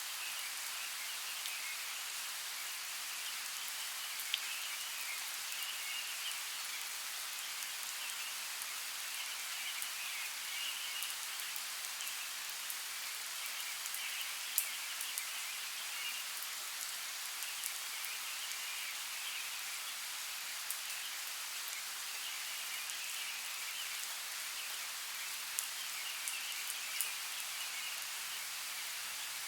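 Steady rain falling, an even hiss with occasional sharper drop ticks standing out, a few of them near the end.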